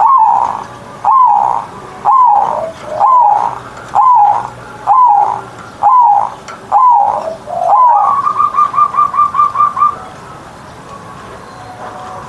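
Zebra dove (perkutut) singing: a series of about eight loud cooing notes, each falling in pitch, about one a second, then a quick run of about a dozen short notes near the end.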